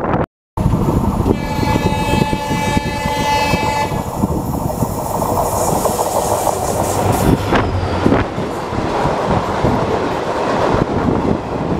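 A train horn sounds one steady note for about two and a half seconds, over the running noise of a moving passenger train heard from an open coach door. A few seconds later an oncoming diesel-hauled passenger train passes on the adjacent track, close alongside, with its wheels clattering over the rail joints.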